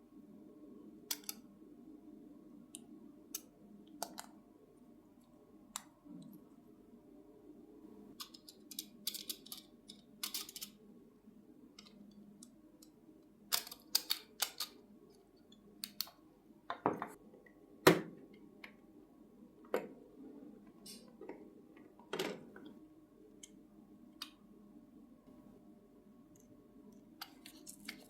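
Scattered clicks and taps of small tools and parts being handled at a workbench, over a steady low hum, with the loudest knocks a little past the middle.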